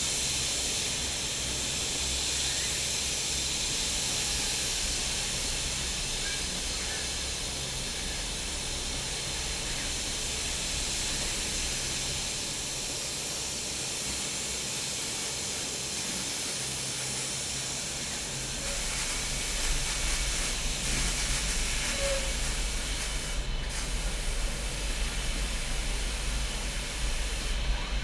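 Steady hissing noise of car-factory machinery, with a low rumble joining about two-thirds of the way through.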